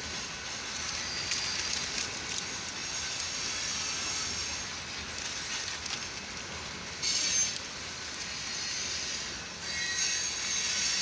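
Freight train of tank cars and covered hoppers rolling through a grade crossing, heard from inside a car: a steady rumble and hiss of steel wheels on the rails. There are louder, brighter stretches about seven seconds in and again near the end.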